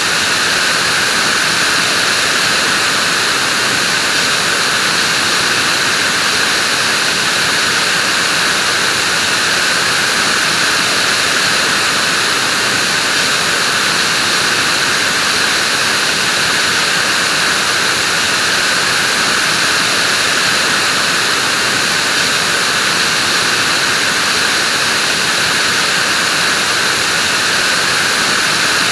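Vacuum cleaner running continuously, a steady even whoosh of motor and airflow with a high hiss and no change in speed.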